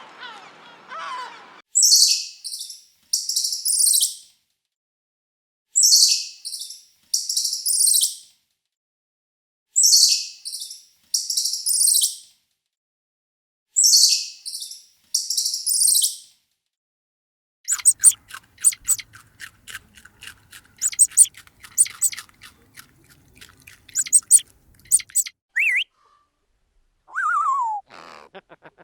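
High-pitched animal calls: a pair of shrill chirps repeated four times, about every four seconds, then a fast run of clicking chirps, then a few falling whistles near the end.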